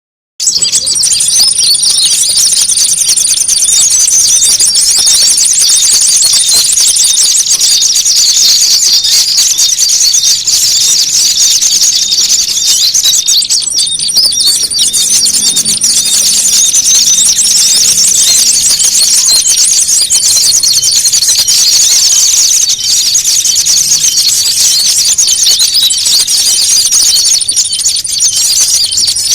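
Bird-trapping lure recording of small songbirds in a noisy squabble: dense, rapid, high-pitched chattering calls, loud and unbroken, with a thin steady high whistle that comes and goes over them. It starts abruptly about half a second in.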